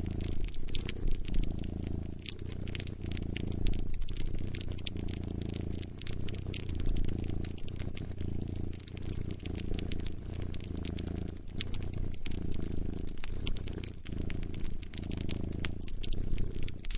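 A cat purring close up, the low purr swelling and easing every second or two with its breaths, over a wood fire crackling with many small sharp clicks and snaps.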